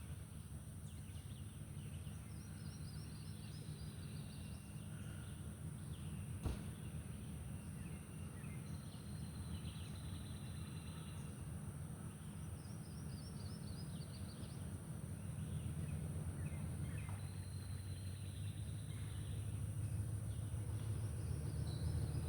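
Songbirds singing repeated descending chirping phrases over a steady low rumble, with one sharp click about six and a half seconds in.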